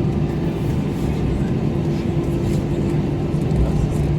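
Steady cabin noise of an Airbus A321 taxiing after landing, heard from inside the cabin: the engines running at idle make a constant hum with a couple of steady tones.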